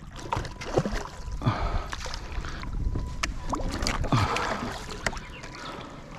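Water sloshing and splashing around a fishing kayak, with scattered knocks and bumps at irregular moments.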